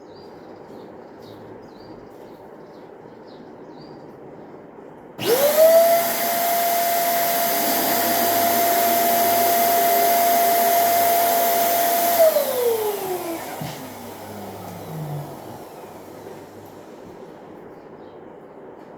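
Electric balloon inflator switched on about five seconds in. It spins up quickly to a steady whine with a rush of air for about seven seconds while blowing up a balloon, then is switched off and winds down with a falling pitch.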